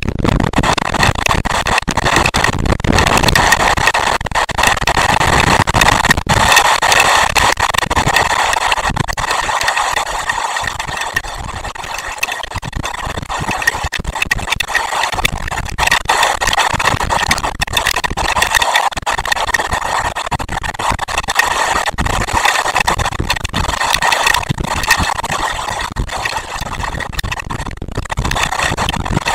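Heavy rain pouring steadily, with many sharp clicks of drops striking close to the microphone.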